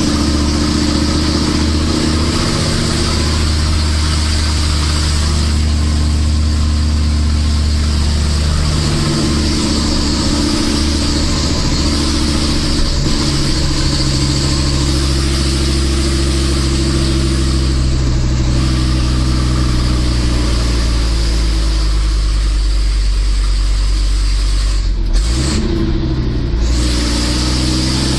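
Nissan Diesel Big Thumb truck's RH10 V10 diesel engine running hard up a hill under a 25-tonne load, a loud steady drone. About 25 seconds in the engine note dips briefly and climbs again.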